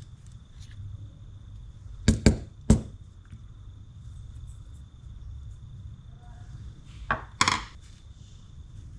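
Sharp knocks and taps of metal fishing reel parts being handled and knocked during disassembly: three close together about two seconds in, then two more near the end, the last one briefly rattling.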